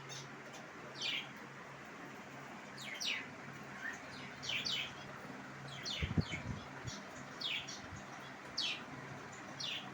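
Lovebirds chirping: short, high, falling chirps about every second, some in quick pairs, over a faint steady hum, with a few low thumps about six seconds in.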